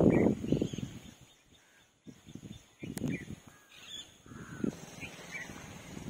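Birds calling in short, scattered calls over gusts of wind buffeting the microphone; the wind is loudest at the start and again about three seconds in.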